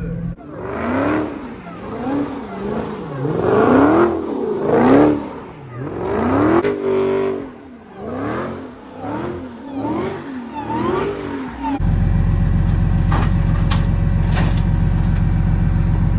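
A V8 muscle-car engine revved hard over and over, its pitch climbing and falling about once a second. About twelve seconds in, this gives way to a steady, loud, bass-heavy sound.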